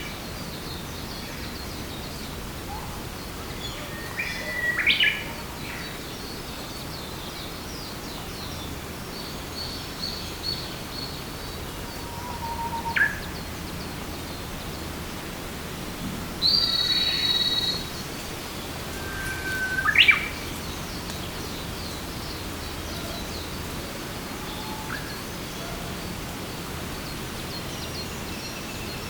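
Songbirds singing in forest: a few separate songs, each a held whistle, several ending in a quick upward flourish, spaced several seconds apart. Under them runs a steady background hiss.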